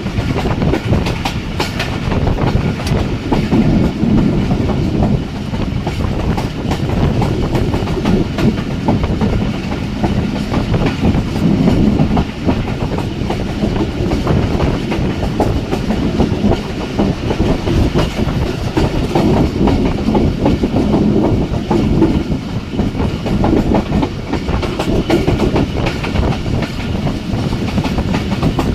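Jaffar Express passenger train running at speed: a steady rumble of wheels on the track with the clickety-clack of the wheels over rail joints.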